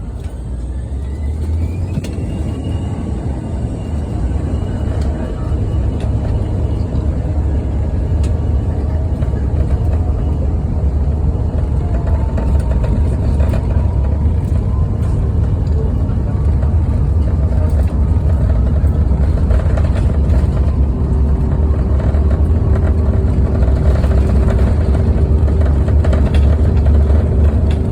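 Bombardier CRJ-700's two rear-mounted GE CF34 turbofan engines spooling up to takeoff thrust, with a rising whine over the first couple of seconds, then a heavy low rumble that grows steadily louder through the takeoff roll.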